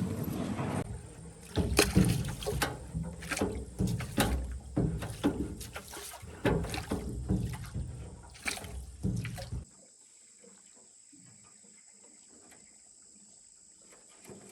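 Water splashing with repeated knocks against a small boat, as paddles or nets are worked, stopping abruptly about ten seconds in. A steady high-pitched whine sits underneath throughout.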